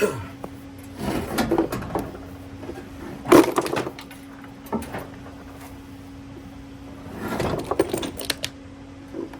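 Irregular knocks, scrapes and clunks in several bursts as a mini split unit is shifted and handled, over a steady low hum.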